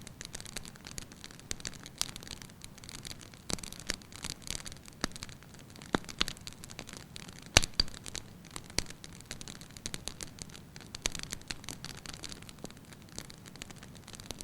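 Wood fire crackling in a fireplace: a soft steady hiss with irregular sharp pops and snaps, one louder pop about halfway through.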